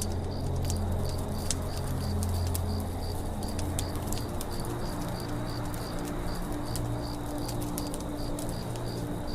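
Campfire crackling with scattered sharp pops, over a forest ambience with a high chirp repeating evenly about three times a second and low steady tones beneath.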